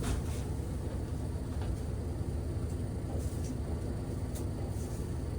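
A steady low background rumble with a few faint, light clicks.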